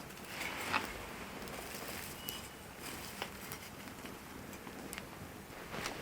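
Small wood campfire crackling: scattered sharp pops and snaps over a soft hiss.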